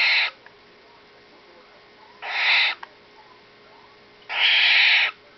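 Six-week-old barn owl chick giving harsh hissing calls, three in a row about two seconds apart, each under a second long: the food-begging call of a young barn owl during feeding.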